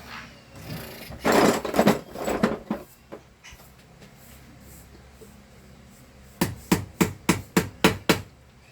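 A small ball bearing being worked into its seat in a handheld vacuum cleaner's motor. About a second in there is a stretch of rubbing and scraping, and near the end come about seven sharp knocks in quick succession as it is tapped home.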